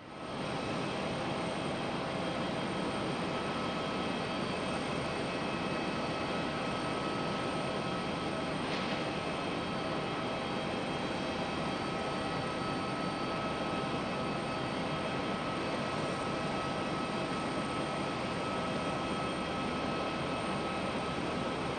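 Airbus A330-300 jet engines running at a steady level: an even hiss with a constant whine over it.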